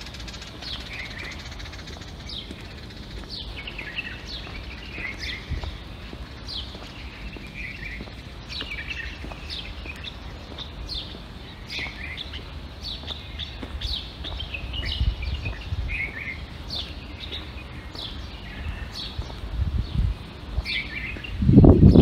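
Small songbirds chirping: many short, quick chirps that drop in pitch, several birds calling over one another, over a low rumble. A louder low rumble swells near the end.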